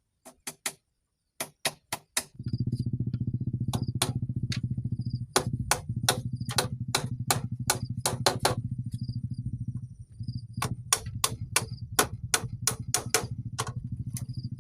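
Sharp tool strikes in quick runs of three to six. From about two seconds in they sit over a steady low engine hum.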